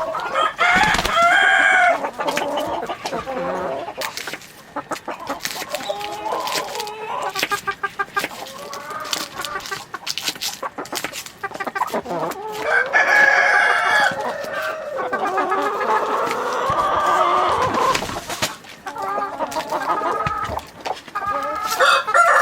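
Chickens clucking, with longer calls that include a rooster crowing near the middle and again at the end. Short sharp clicks and knocks come in between.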